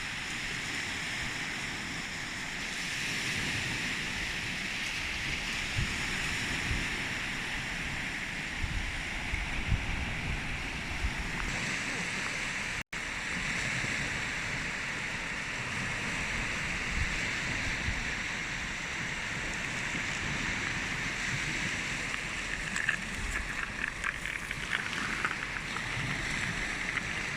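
Sea waves washing on the shore, a steady rushing hiss, with wind buffeting the microphone in uneven low gusts. The sound cuts out for an instant about halfway through.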